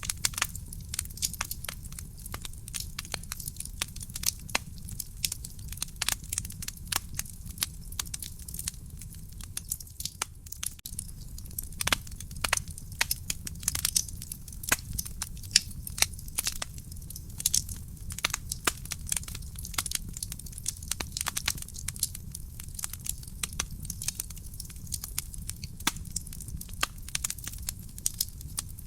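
Real wood fire burning in a fireplace: continual irregular crackling with frequent sharp pops and snaps over a low steady rumble.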